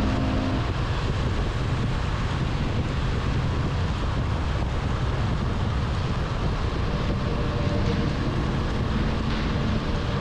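Steady wind rush buffeting the microphone of a motorcycle at riding speed.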